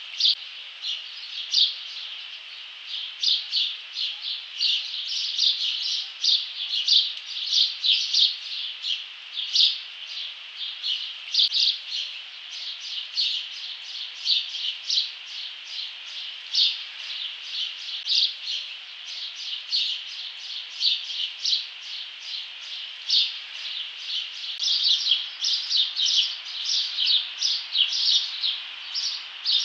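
Birds chirping: quick, high chirps, several a second, without a pause.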